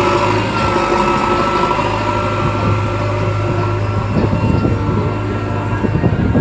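Diesel engine of a JCB construction machine running steadily, with rougher, uneven sound from about two-thirds of the way through.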